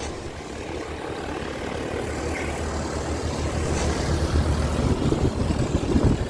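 Propeller aircraft engine running, a steady rumble that fades up from silence and grows gradually louder.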